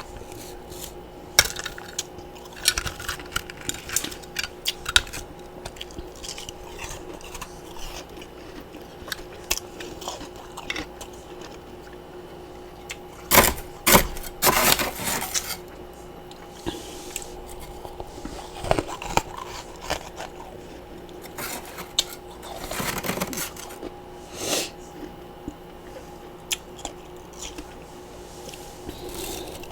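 Close-miked crunching and chewing of freezer frost and ice chunks: irregular sharp crunches, with louder bursts of crunching about halfway through and again near three quarters of the way. A faint steady hum runs underneath.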